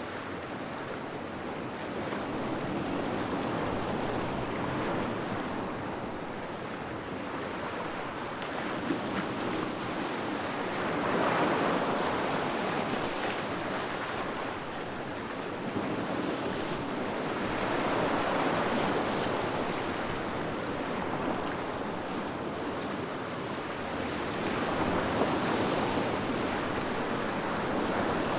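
Sea waves breaking and washing in, a steady rush that swells and ebbs about every six to seven seconds.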